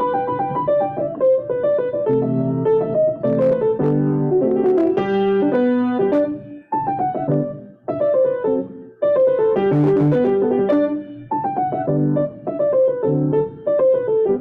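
Solo piano playing a melody over chords, with a few brief pauses between phrases.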